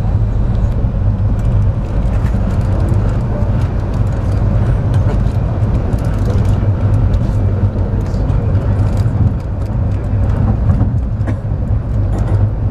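Steady low rumble of a moving passenger train heard from inside the car, with faint irregular clicks and rattles over it.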